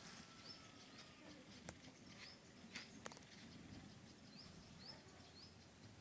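Near silence outdoors, with a bird's short high chirps repeating every half second or so and three sharp clicks in the middle.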